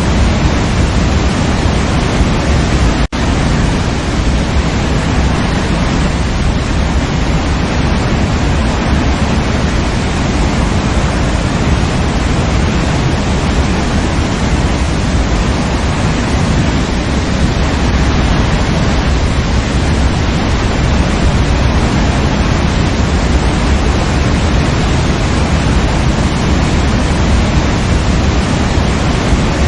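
Waterfall: a loud, steady, deep rush of falling water, with a momentary dropout about three seconds in.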